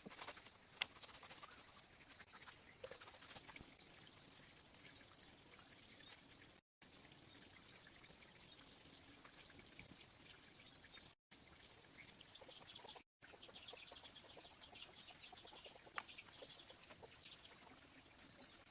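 Faint outdoor ambience: a quiet, even hiss with scattered light ticks and clicks, dropping out abruptly three times.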